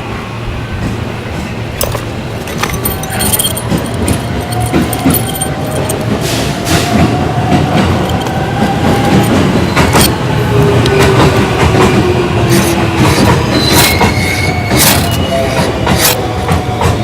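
A freshly lit fatwood-kindled campfire catching and building, crackling and popping with a steady rushing hiss that grows louder. Thin whistling tones slide up and down now and then, like gas and steam escaping from burning wood.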